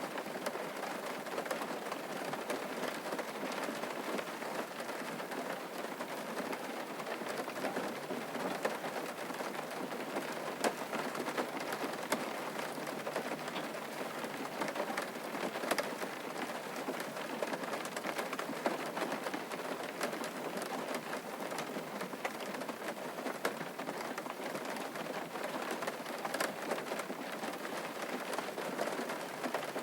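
Steady rain falling on a surface, an even patter with many individual drop ticks.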